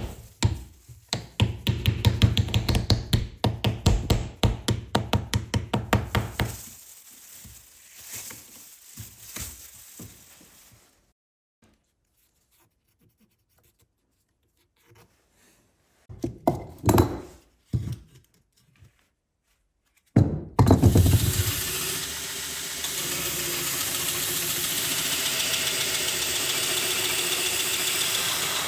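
A fast run of tapping knocks that dies away, then after a pause a workshop power tool starts up with a thump and runs with a steady hiss.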